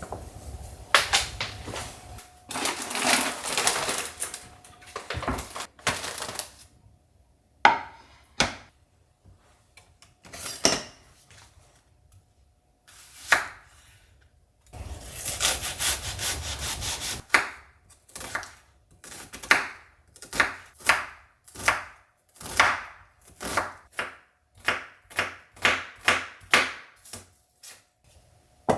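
Wood being sawn by hand: a few irregular scraping passes, then steady back-and-forth saw strokes about one and a half a second.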